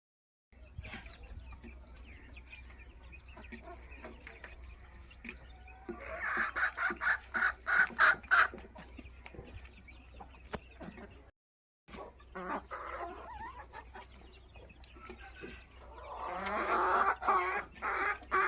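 Aseel chickens clucking in quick runs, loudest in two spells, about six seconds in and again near the end, over a steady low hum. The sound drops out completely twice for about half a second.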